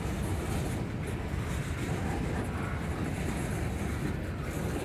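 Freight cars of a Norfolk Southern train, flatcars and lumber-loaded centerbeam cars, rolling past: a steady rumble of steel wheels on the rails.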